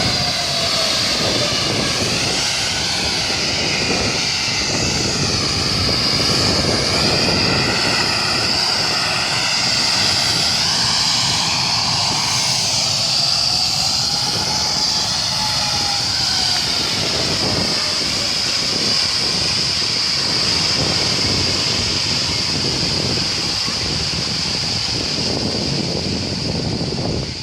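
Jet airliner engines running at full take-off power, heard from behind in the jet blast: a loud, steady roar with a high whine over it and wavering tones.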